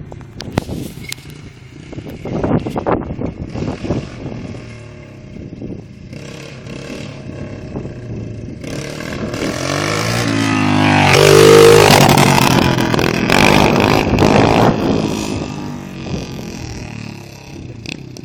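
Dirt bike engine, first in uneven bursts further off, then coming close and riding past: it swells to its loudest about two-thirds of the way through, the pitch dropping as it goes by, then fades away.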